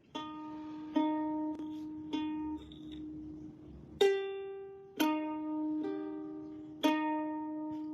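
Background music of plucked ukulele notes, a few slow strums or picked notes, each left ringing.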